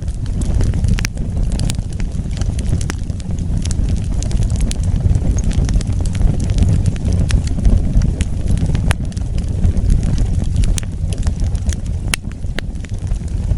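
Wood fire burning: a steady low rumble of flames with frequent sharp crackles and pops scattered throughout.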